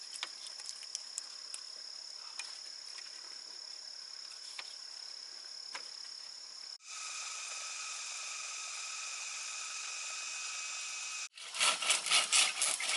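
Insects chirring in forest: first a steady high-pitched trill with scattered clicks, then, after an abrupt change about seven seconds in, a different steady buzzing drone. Near the end it switches abruptly to a louder, rapidly pulsing insect chorus.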